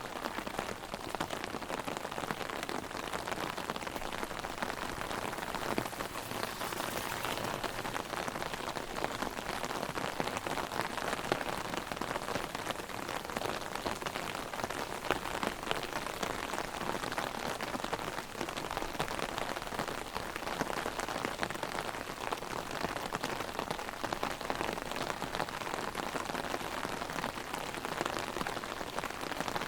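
Heavy rain drumming on an umbrella overhead, a dense steady patter of drops.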